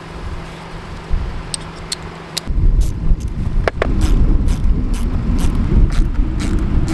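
Power cords and fittings being handled and pushed through a yurt's sidewall, with scattered clicks and knocks, over a steady low rumble that grows louder about two and a half seconds in.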